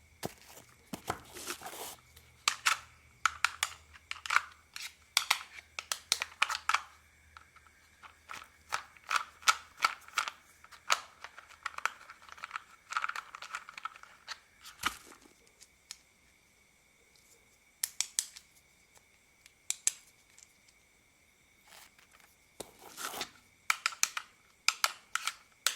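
Plastic toy car being unscrewed and taken apart by hand: many short sharp plastic clicks and scrapes in quick runs, thinning out about halfway through with a couple of quiet gaps, then picking up again near the end.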